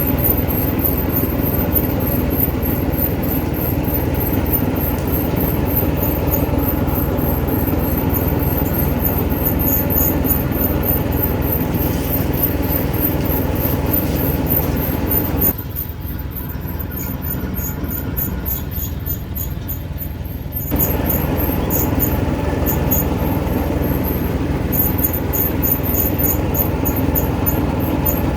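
Engine of a small 6.5 hp Japanese 4x4 mini tractor running steadily. A little past halfway it goes quieter and duller for about five seconds, then comes back to full level.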